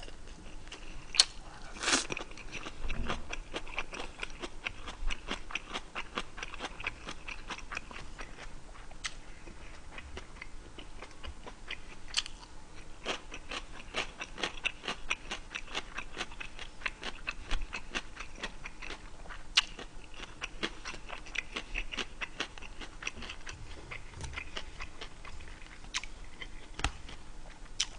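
A man chewing food close to the microphone, with continuous small wet clicks and smacks of the mouth and a few sharper ones about one and two seconds in.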